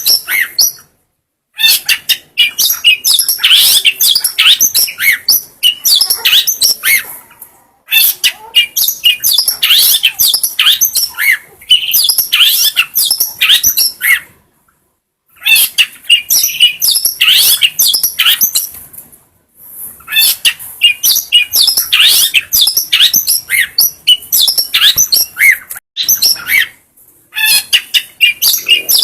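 Long-tailed shrike (cendet) singing: long runs of rapid, varied chattering and whistled notes, broken by short pauses every five to seven seconds.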